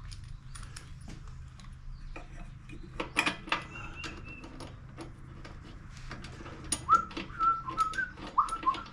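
A person whistling a few short, swooping notes near the end, after one brief held whistle a few seconds earlier, over scattered clicks and clinks of hand tools on metal.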